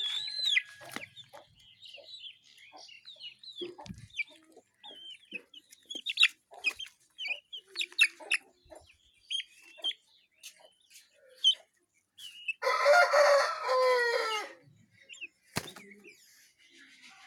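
Parrot-beak long-tail chickens clucking and cheeping in short scattered calls, with a rooster crowing once in one long, loud call about two-thirds of the way through.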